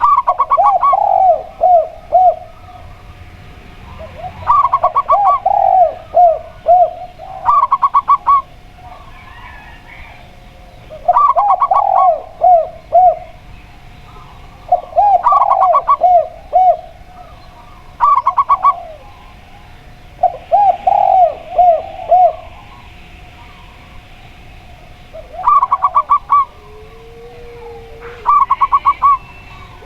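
Zebra dove and spotted dove calling in repeated phrases, about eight in all, each a quick run of clipped higher notes followed by a series of lower, rolling coos, with short pauses between phrases.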